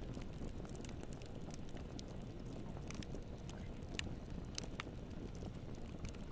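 Wood fire in a fireplace crackling over a steady low rumble of burning, with scattered sharp pops, the loudest about four seconds in and two more just after.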